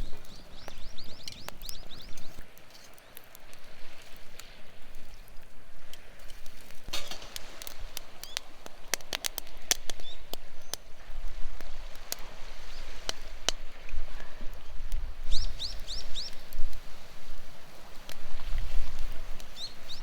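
Outdoor ambience with quick runs of short, high, falling chirps from a small animal, heard near the start, about three-quarters through and again at the end. Scattered sharp clicks and crackles come mostly in the middle, over a low rumble.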